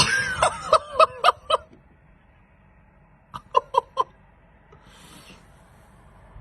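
A person laughing in two short bouts of quick, high-pitched ha-ha pulses, about six at the start and four more about three and a half seconds in.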